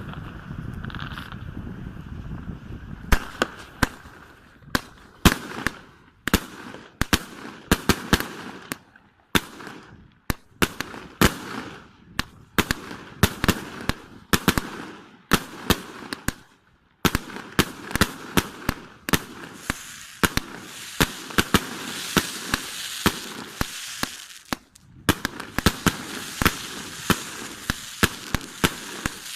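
A 49-shot, 1.2-inch consumer fireworks cake (Triplex TXB401 Blizzard) firing its shots one after another, with sharp launch thumps and aerial bursts a second or less apart. The shots come faster and denser in the second half.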